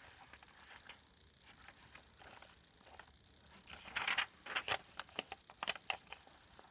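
Paper rustling and crinkling as the pages, card and tags of a handmade paper journal are handled: faint at first, then a run of crisp rustles and clicks from about four seconds in.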